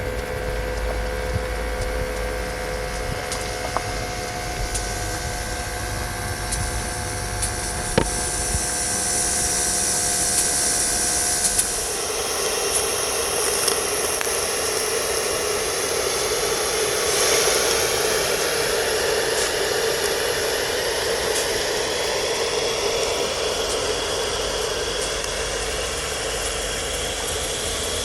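Gauge 1 live steam model locomotive hissing steadily, with a few held whistling tones in the hiss for about the first twelve seconds; after that the tones stop and the hiss turns broader and louder, with occasional light clicks.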